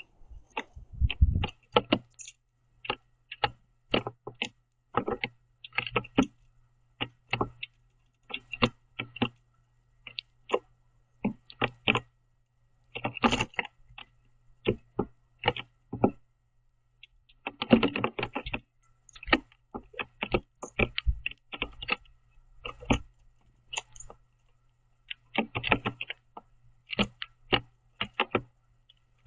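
Irregular sharp taps and clicks of a bird pecking at seeds on a platform feeder close to the microphone, with quick flurries of pecks every few seconds.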